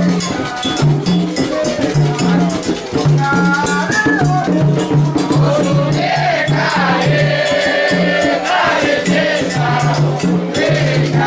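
Afro-Brazilian religious music of the kind played at Candomblé ceremonies: a rattle shaken to a repeating low beat, with voices singing, strongest in the second half.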